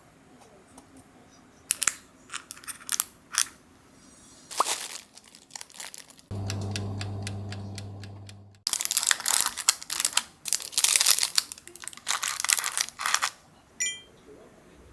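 Kitchen handling sounds: a few sharp clicks and knocks, then a steady electric hum for about two seconds that cuts off, followed by several seconds of crinkling packaging.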